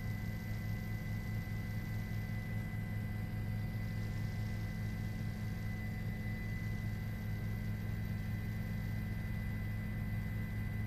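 A steady low hum with a few faint steady higher tones over it, unchanging throughout.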